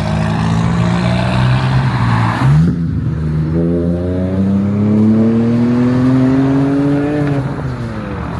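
Volkswagen Golf R (Mk6) turbocharged four-cylinder engine pulling away. The note holds steady at first, breaks briefly about two and a half seconds in, then rises steadily under acceleration for about four seconds before easing off near the end.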